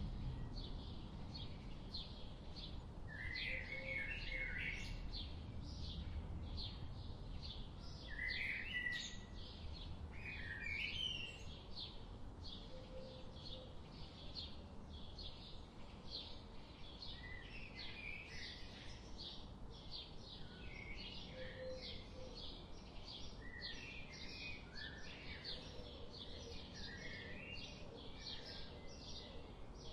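Several wild birds calling: one repeats short high chirps about twice a second, and another gives short warbling phrases every few seconds. A low rumbling background noise runs beneath them and is stronger in the first half.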